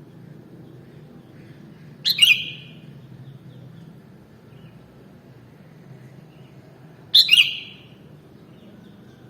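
Sooty-headed bulbul (kutilang) giving two short, loud calls about five seconds apart, over a faint low hum.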